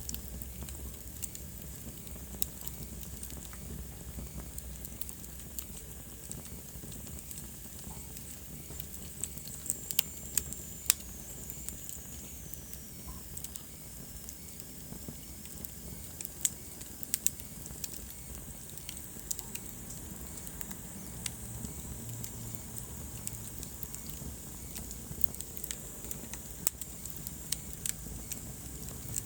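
Wood fire burning in a fireplace: irregular sharp crackles and pops over a steady low rumble and hiss, with a faint thin whistle sliding down in pitch about ten seconds in.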